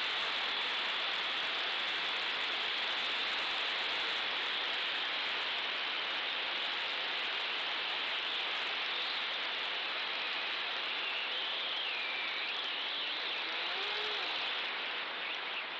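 Steady rushing noise of airflow and motor picked up by the onboard camera of an FPV model airplane in flight, with a faint tone wavering up and down near the end.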